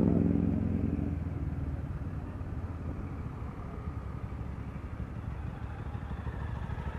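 Motorcycle and scooter engines running at low speed in traffic, with road rumble. A louder engine note at the start fades out over the first second or so, leaving a steady low rumble as the vehicles slow.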